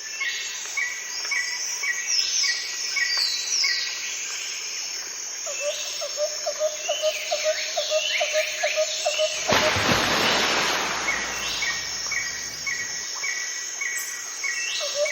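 Birds chirping and whistling: rapid repeated chirps and short downward-sliding calls, some in steady series. About two-thirds of the way in, a loud, even rush of noise sets in over the calls and stops near the end.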